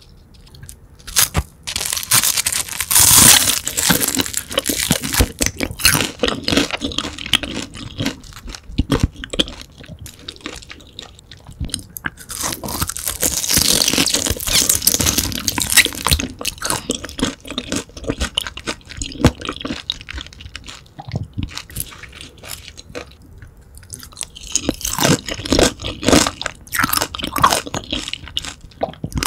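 Crunching and chewing of crispy grilled whole beef large intestine (daechang), close to the microphone. It comes in three loud spells about ten seconds apart, with quieter chewing between them.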